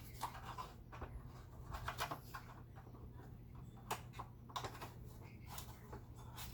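Small clicks, taps and short scrapes of hard parts being handled, a few strokes a second at irregular spacing, over a steady low hum.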